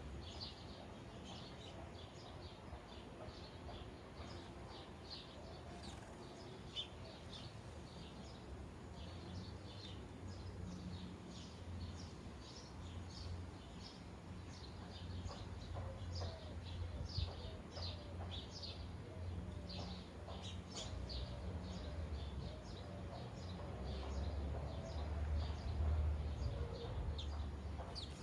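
Sparrows chirping continually, many short chirps overlapping, over a low rumble that grows louder in the second half.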